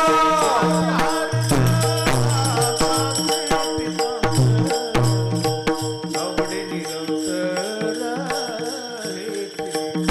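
Marathi devotional kirtan music: a steady held drone, regular low hand-drum beats and quick metallic cymbal clicks, with a voice singing gliding phrases over them.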